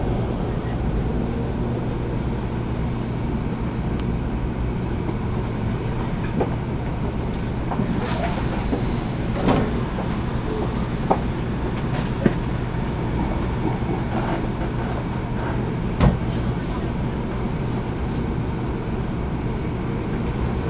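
Steady running rumble of a THSR 700T high-speed train, heard from inside the carriage as it runs through the underground tunnel. A handful of sharp clicks and knocks come through the middle stretch, the loudest about three-quarters of the way in.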